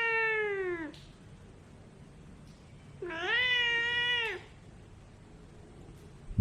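Ragdoll cat meowing twice: two long, drawn-out meows about three seconds apart, each holding its pitch and then dropping away at the end.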